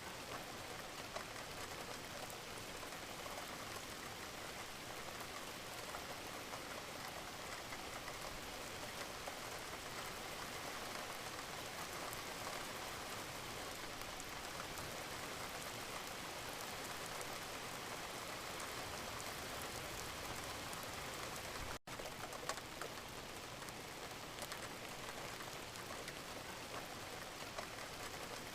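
Steady gentle rain: an even hiss of falling rain with a dense patter of small drops. It cuts out for a split second about three quarters of the way through.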